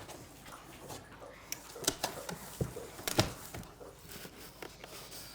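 Cardboard box packaging being handled and opened: scattered knocks, taps and rustles, the loudest about two and three seconds in.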